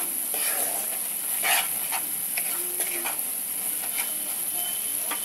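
Onion, ginger-garlic and spice masala sizzling in oil in a non-stick kadai, with a wooden spatula scraping and stirring through it at irregular intervals. The masala is being fried to cook out its raw taste.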